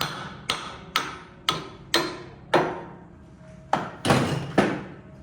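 Hammer blows on metal, about two a second, each ringing briefly. There is a short pause about three seconds in, then three more blows, the last two the loudest.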